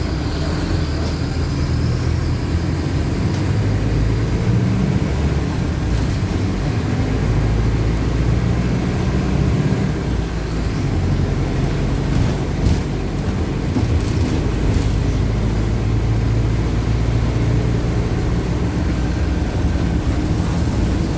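Mercedes-Benz OF-1519 bus's four-cylinder diesel engine running steadily, with a few brief knocks or rattles around the middle.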